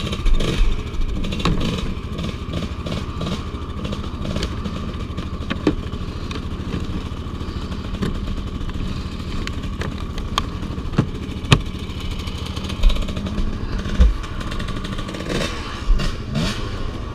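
Off-road vehicle engine running steadily at low revs, with sharp clicks and knocks now and then.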